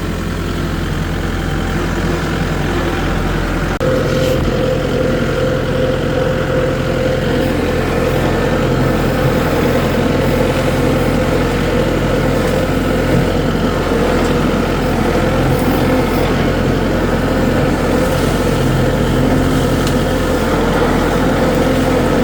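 Kubota tractor engine running steadily. About four seconds in the throttle is raised and the engine note climbs to a higher, steady speed.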